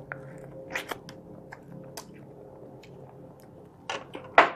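Close-up eating sounds: a person chewing seafood boil by hand, with small wet mouth and finger clicks scattered throughout and a louder mouth sound near the end.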